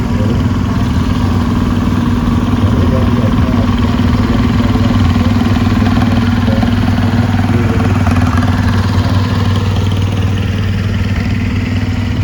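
Farm tractor engine running steadily at low speed, a continuous low hum as it rolls past.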